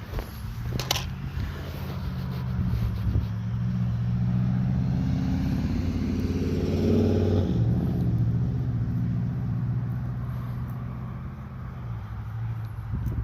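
A motor vehicle driving past. Its engine note builds, peaks about seven seconds in, then fades away.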